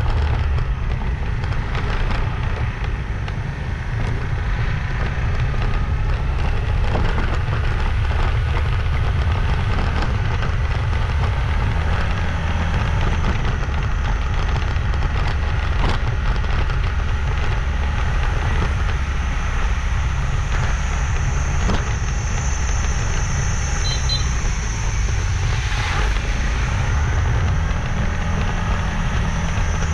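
Motorbike riding along a road: steady engine, tyre and wind noise on the microphone. A steady high-pitched whine joins about two-thirds of the way through.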